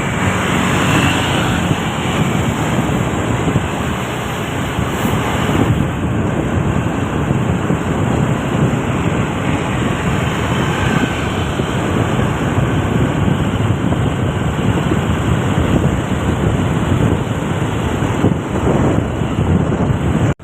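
Isuzu Giga truck on the move: a steady mix of engine, road and wind noise.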